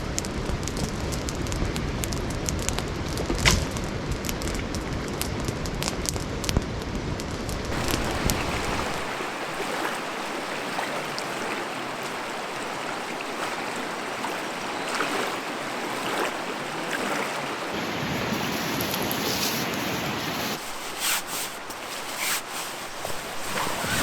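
Rushing river water and wind buffeting the microphone. The wind rumble drops away about nine seconds in, leaving the hiss of moving water, with a few sharp splashes or knocks near the end.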